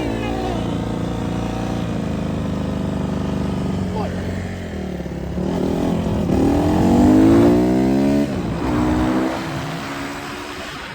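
Dirt bike engine running under the rider, steady at first, then revving up with a climbing pitch to its loudest about seven seconds in before backing off sharply about eight seconds in.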